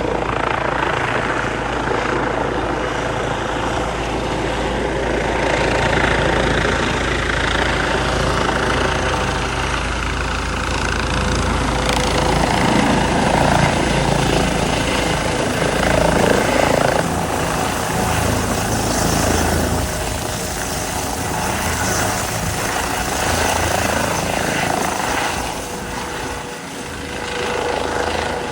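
Airbus EC135 twin-engine helicopter running in flight, with a loud, steady turbine and rotor noise that eases off slightly near the end.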